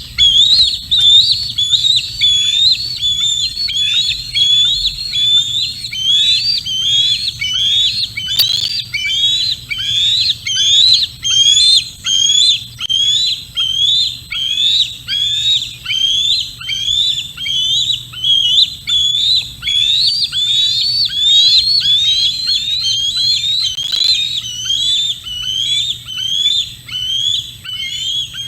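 Juvenile bald eagle calling close to the microphone: a steady run of high whistled calls, about one and a half a second, each rising sharply and then dropping. Two sharp clicks cut in, about a third of the way in and again near the end.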